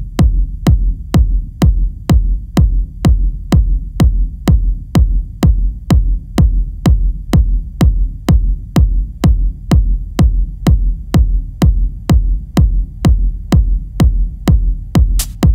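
Minimal techno track opening on a bare four-on-the-floor kick drum, about two beats a second over a low bass rumble; near the end, extra quicker percussion hits come in between the kicks.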